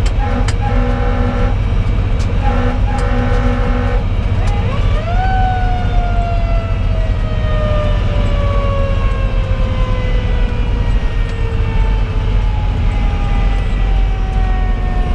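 Fire engine under way with its Detroit Series 60 diesel and the road noise running loud underneath. Two groups of short air-horn blasts sound in the first four seconds. Then, about four and a half seconds in, the Federal Q2B mechanical siren winds up quickly and slowly winds down, its pitch falling steadily for the rest of the time.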